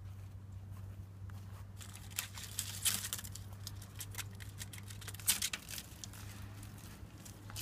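A steady low electrical hum, with a few light clicks and rustling handling noises, the strongest about 2, 3 and 5 seconds in.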